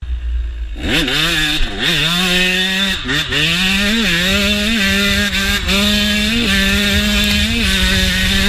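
KTM motocross bike's single-cylinder engine revving hard under throttle, pitch climbing and dropping back several times as the rider opens and closes the throttle and shifts. After a short low rumble it starts about a second in.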